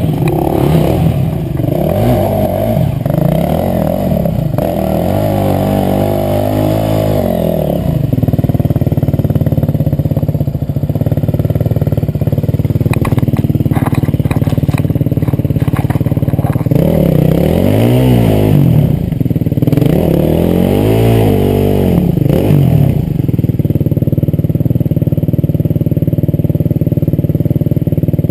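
Enduro motorcycle engines running, with one revved hard in quick rising and falling surges during the first eight seconds and again from about seventeen to twenty-three seconds. A few light clicks come in the middle.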